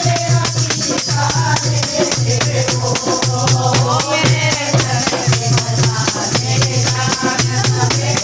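Kirtan devotional music: voices singing over jingling hand percussion that keeps a fast, even beat, with a low drum-like pulse about once a second.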